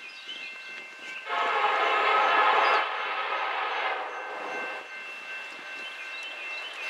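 Diesel locomotive air horn sounding one blast, starting about a second in: loud for about a second and a half, then quieter for about two more seconds before it fades out.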